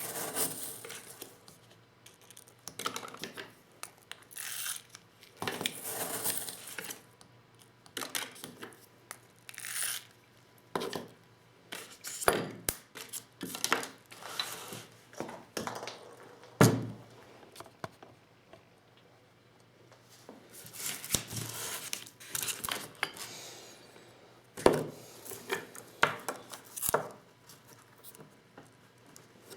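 Irregular clicks, scrapes and rustles of 12-gauge shotgun shells and Lee Loader tool parts being handled during hand reloading, with one sharp knock about halfway through.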